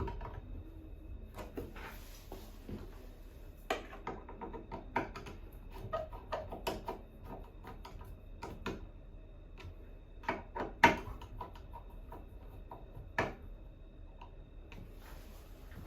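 Irregular clicks and knocks of hand work on a bathroom faucet and its fittings, with the loudest knock about eleven seconds in.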